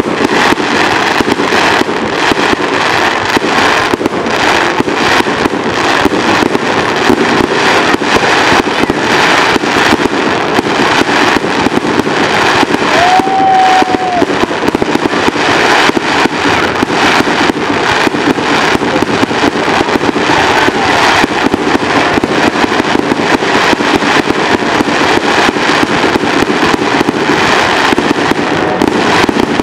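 Aerial fireworks going off in a dense, continuous barrage: rapid shell bursts overlapping with crackling, with no gap between reports.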